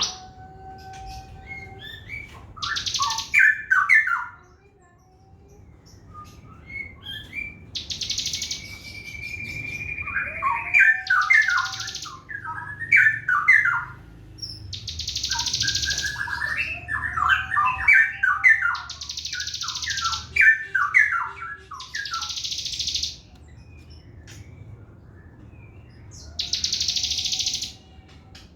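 Sogon trotol bird singing a fast, lively song: quick runs of short falling chirps alternating with buzzy, hissing trills about a second long, repeated several times, with an occasional short clear whistle. This is the kind of song played as master song for training white-rumped shamas.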